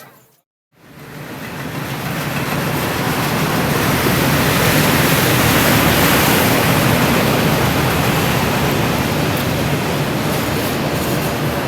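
Train running past, a steady rushing noise with a low rumble that swells over the first few seconds after a brief cut to silence, then holds loud.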